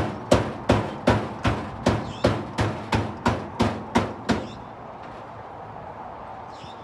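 Hammer striking in a steady run of quick blows, about three a second, stopping about four seconds in.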